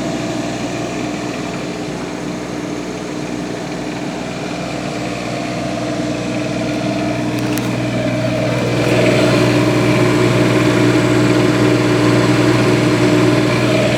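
Steady engine hum at a constant pitch with no revving, growing louder about halfway through.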